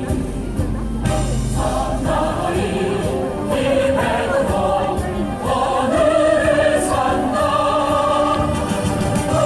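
Choral music: a choir singing sustained, slowly moving lines.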